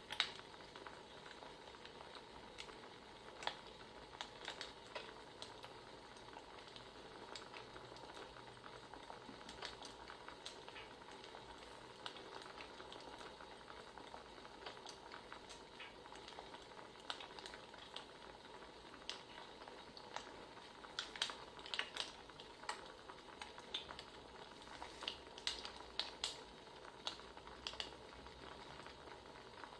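Wood fire crackling: a steady soft hiss with irregular sharp pops and snaps, a cluster of louder pops about two-thirds of the way in.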